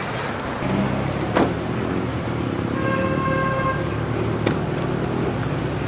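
Vehicle engine running with a steady low hum. A short pitched tone sounds for about a second near the middle, and there are two sharp clicks.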